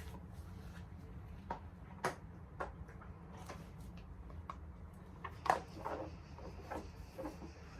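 Bubbles of a large silicone pop it fidget toy being pressed one at a time: an irregular string of short pops, about a dozen, the loudest about five and a half seconds in.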